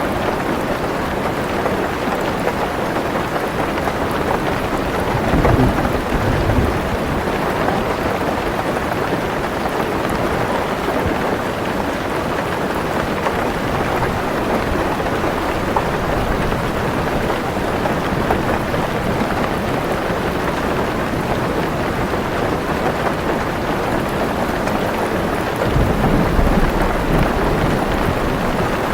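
Heavy rain falling steadily on a car roof and windows, with low rumbles of thunder about five seconds in and again near the end.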